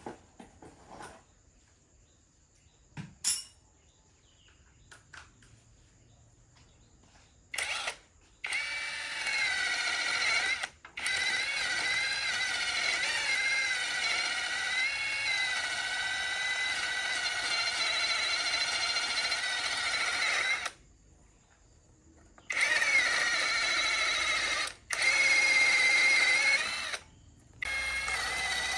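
A few light knocks, then an electric power tool running in several stretches of a few seconds to about twelve seconds, starting and stopping abruptly with a steady whine.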